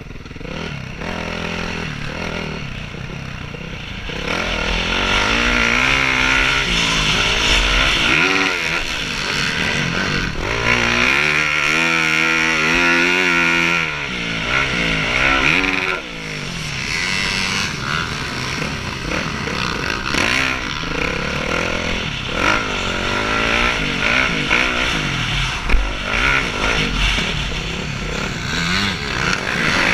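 Several motocross bikes racing past, their engines revving up and down over one another through gear changes, getting louder as they pass and fading away.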